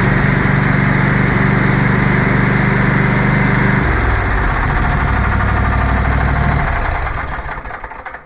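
24 hp Kohler twin-cylinder engine of a Husqvarna lawn tractor running steadily, just restarted after its mouse-chewed coil and plug wires were replaced. About four seconds in it drops to a lower speed, and near the end it is shut off and runs down.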